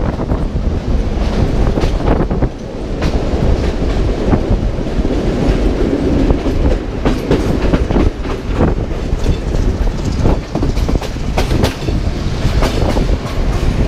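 Passenger train running at speed, a steady rumble from the wheels and coaches with many irregular knocks and clicks as the wheels run over rail joints.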